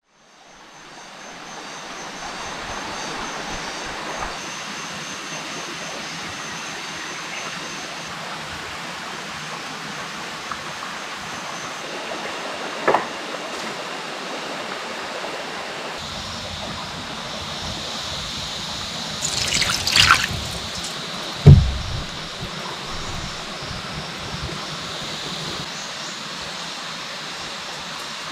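Running water as a steady hiss that fades in at the start. A few sharp knocks are heard partway through, and a heavy thud about two-thirds of the way in is the loudest sound.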